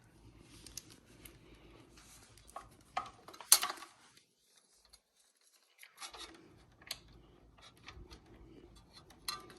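Small clicks, taps and rubbing from hands handling e-bike brake parts and tools, with one sharper clack about three and a half seconds in. The sound drops out entirely for about two seconds in the middle.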